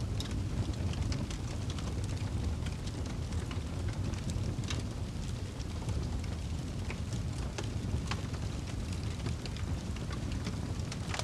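Wood campfire crackling and popping: scattered sharp snaps over a steady low rumble.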